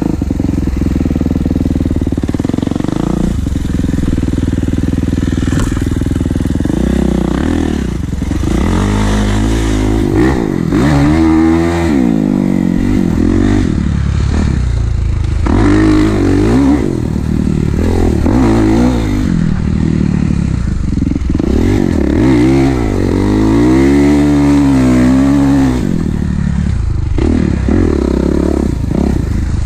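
Kawasaki KX450 four-stroke single-cylinder dirt bike engine running under riding. It holds fairly steady for the first several seconds, then revs up and down repeatedly through the rest.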